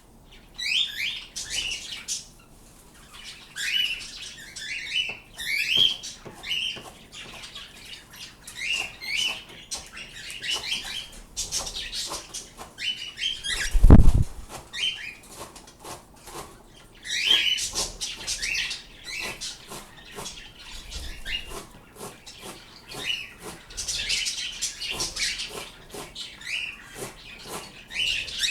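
Pet birds calling with many short, high chirps that slide downward, repeated in quick runs throughout. A single loud thump comes about halfway through.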